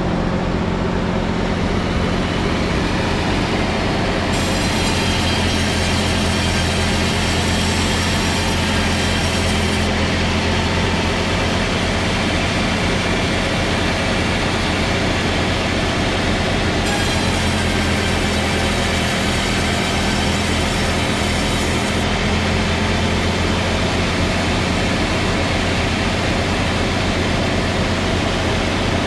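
A heavy machine running steadily with a low hum. A higher hiss comes in twice for several seconds each time and then cuts off.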